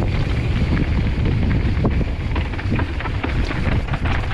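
Wind buffeting the microphone and mountain bike tyres rumbling over a dirt trail on a fast descent, with many small rattles and knocks from the bike.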